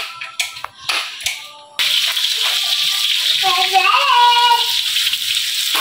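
Pounded lemongrass, garlic, shallots and chili frying in hot oil in a wok: a loud, steady sizzle that starts suddenly a little under two seconds in, after a few short knocks.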